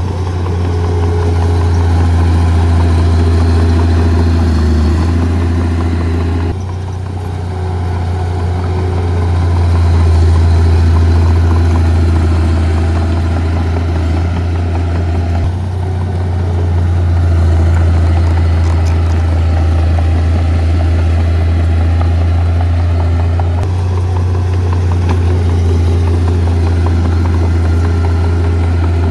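Heavy diesel earth-moving machinery running: a steady, loud, low engine drone. The sound shifts abruptly a few times.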